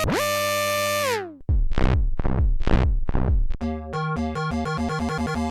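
Arturia MicroFreak synthesizer playing presets: a held note that glides up at its start and falls away at its end, then about six deep, punchy hits in two seconds, then a fast repeating sequenced pattern starting a little after halfway.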